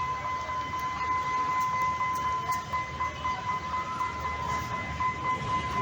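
Train running with a low steady rumble, under a constant high-pitched electronic tone that does not change.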